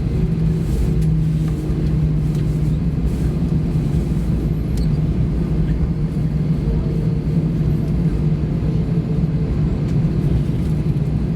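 Airbus A320 cabin noise after landing: the engines and cabin air run with a steady low hum and rumble.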